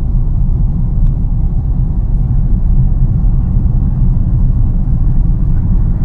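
Steady low rumble of a car driving along a road, heard from inside the cabin: engine and road noise with no change in pace.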